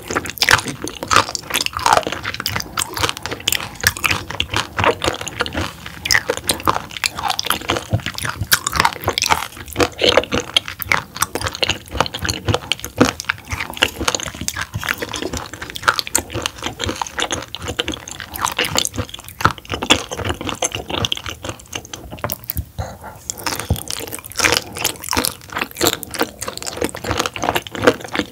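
Close-miked chewing of raw roughscale sole sashimi: wet, crunchy bites and mouth clicks coming thick and fast, with a short lull about three-quarters of the way in.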